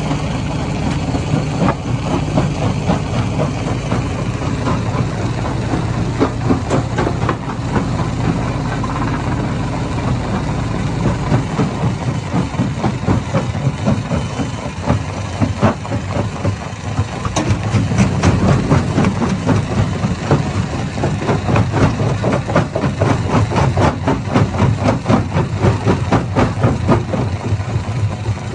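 Hammer stone crusher running: a steady low engine drone with a fast, continuous clatter of knocks as rock is broken.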